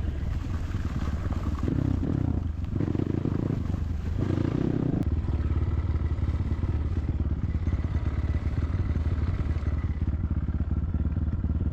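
Enduro dirt bike engine running, its note shifting a few seconds in and then holding steady.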